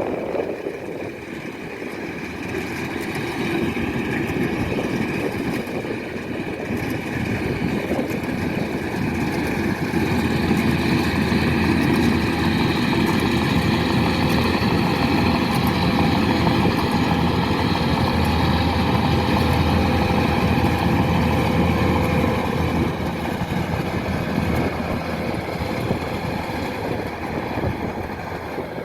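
Kubota DC-105X combine harvester running steadily with its diesel engine and threshing machinery, growing louder over the first third and easing off toward the end.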